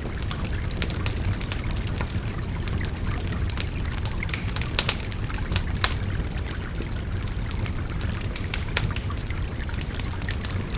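A wood fire crackles with frequent sharp pops over the steady rush of a babbling river.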